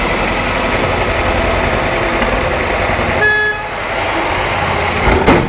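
Power drill running a cutting bit through a car hood, a loud steady grinding noise with a brief high squeal about three seconds in, stopping abruptly at the end.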